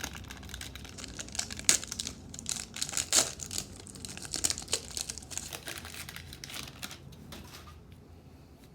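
Crinkling and tearing of a trading-card pack's wrapper as it is ripped open and handled, a dense crackle that dies down about seven seconds in.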